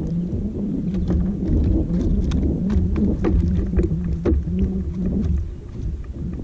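Small fishing boat's motor running with a steady, slightly wavering hum over a low rumble, dropping off about five seconds in, with scattered knocks and clicks.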